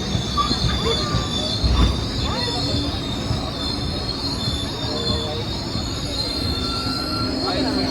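Passenger train running on the rails with a steady high-pitched wheel squeal over a continuous rumble.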